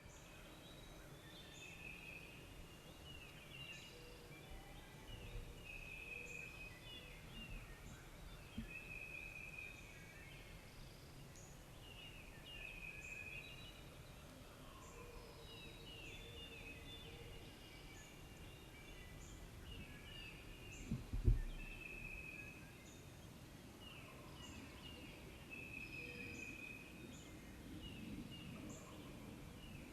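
Songbirds singing repeated short phrases over faint woodland background noise, with a single low thump about two-thirds of the way through.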